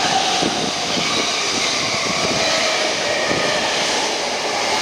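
E217-series electric commuter train running past along the platform: steady rolling rumble of its wheels on the rails, with a run of clacks from about half a second in to past the three-second mark.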